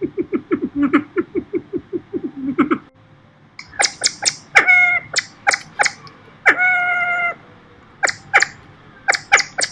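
Bird calls: a fast run of low, evenly spaced notes, about eight a second, for nearly three seconds. After a short pause comes a series of sharp, high chirps that drop in pitch, with one longer held note in the middle.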